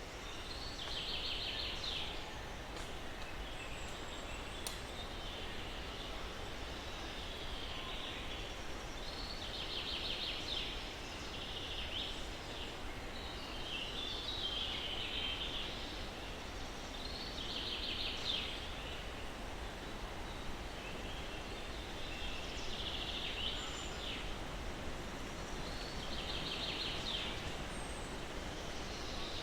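Birdsong over a steady hiss of breeze in pine trees. One bird repeats a short trilled call about five times, several seconds apart, with scattered chirps from other birds in between.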